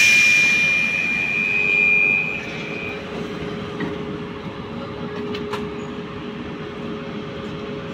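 Electric commuter train rolling slowly alongside a station platform: a steady rumble of wheels and motors with a low, steady hum, and a high, steady squeal for about the first three seconds that then stops.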